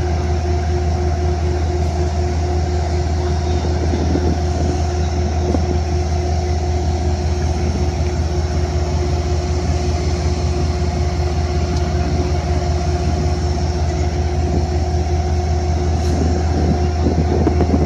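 Amtrak diesel train running steadily: a constant low drone with a steady hum that does not rise or fall.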